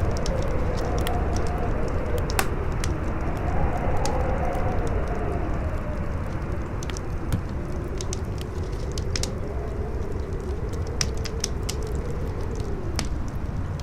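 Campfire crackling with scattered sharp pops and snaps over strong wind: a steady low rumble with slow, wavering howls that rise and fall, one in the first half and another in the second.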